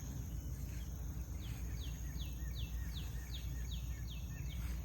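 A bird singing a quick run of about nine short, high, down-slurred notes, about three a second, starting about a second and a half in. Under it a steady high insect trill and a steady low rumble.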